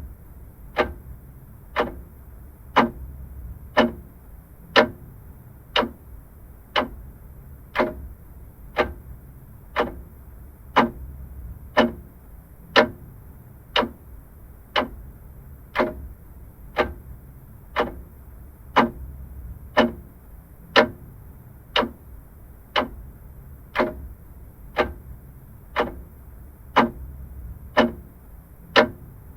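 Vintage mechanical clock ticking steadily, about two sharp ticks a second.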